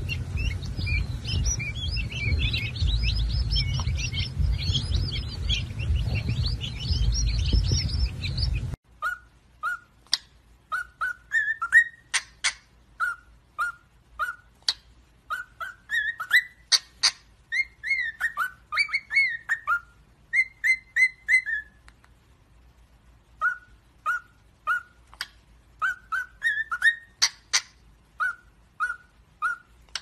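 A crowd of quail chicks peeping in a dense, high chatter over a low rumble, which stops abruptly about nine seconds in. Then cockatiels whistling: short rising whistled notes in quick groups, with sharp clicks between them.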